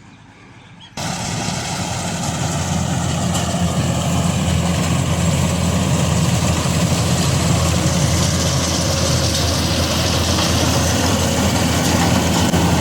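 Combine harvester's diesel engine running steadily under load, a loud low hum with a broad rushing haze over it, starting abruptly about a second in.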